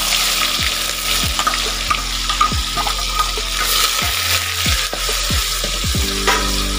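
Onion paste sizzling as it fries in hot oil in a metal kadhai, stirred with a metal slotted spatula that scrapes and taps the pan now and then.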